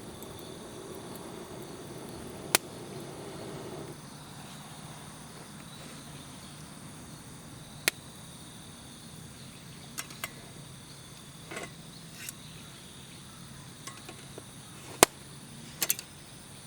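Firewood burning in a fire pit, giving a sharp crackling pop every few seconds, over a steady trilling of insects.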